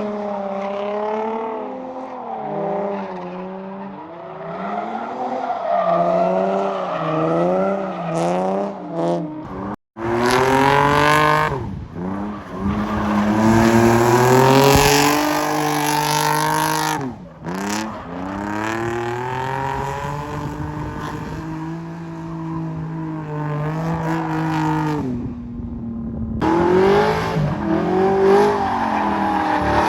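Race cars on a track, engines revving up and down with tire squeal. The sound cuts off abruptly three times, about ten, seventeen and twenty-six seconds in.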